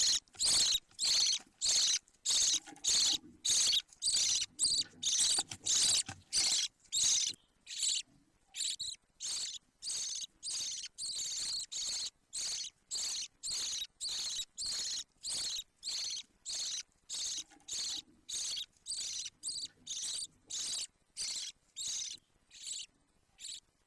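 Budgerigar chick calling with a long run of short, raspy, high-pitched cheeps, about two or three a second, that stop shortly before the end.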